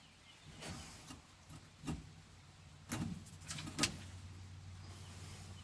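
Electric drill with a spot-weld cutter bit boring out a spot weld in the sheet-steel seat pan. There are several sharp metal scrapes and clicks, and a steady low motor hum from about three seconds in.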